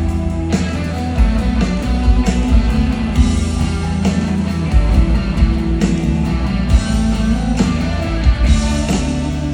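Rock band playing an instrumental passage, with guitar leading over a heavy bass line.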